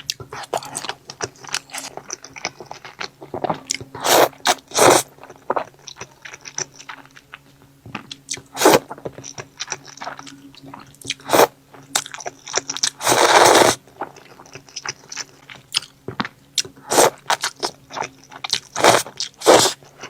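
Close-miked eating: a person biting and chewing food, with many short sharp crunches and wet mouth clicks at irregular intervals and a longer rush of noise about 13 seconds in. A faint steady hum lies underneath.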